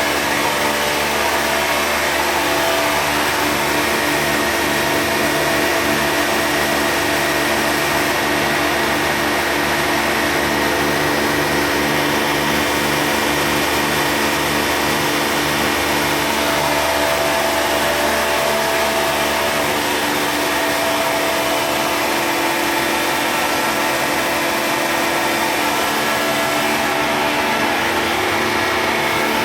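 Oil-sealed rotary vacuum pump running steadily: a continuous machine hum with a regular pulsing beat underneath.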